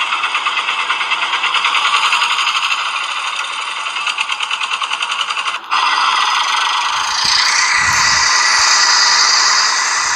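Small toy-vehicle motor and gears rattling in fast, even pulses. After a sudden cut a little past halfway, a steadier rasping noise follows, with a few low thumps near the end.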